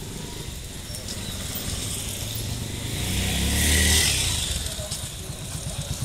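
A motor vehicle passing by on the road, its engine hum and tyre noise growing to its loudest about four seconds in, then falling away in pitch as it moves off.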